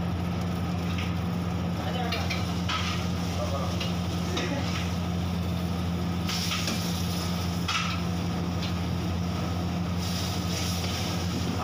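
Meat pieces sizzling in hot oil in a large iron wok over a gas flame, the sizzle swelling several times, over a steady low hum. Near the end a metal ladle stirs through the wok.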